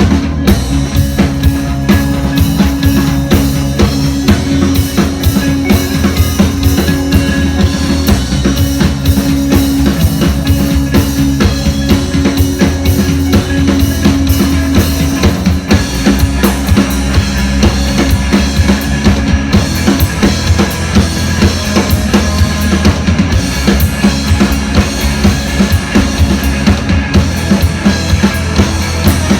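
Live band music with a full drum kit keeping a fast, steady beat of kick and snare over sustained bass notes.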